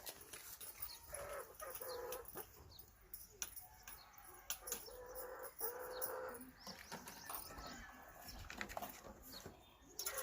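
Aseel chickens clucking faintly: a series of short pitched calls, a few drawn out for about a second, with scattered light clicks and rustles between them.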